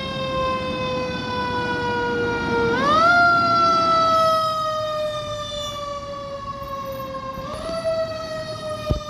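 Fire engine siren winding up quickly and then slowly falling in pitch, twice: loudest about three seconds in, and again more softly about seven and a half seconds in. A short sharp knock comes just before the end.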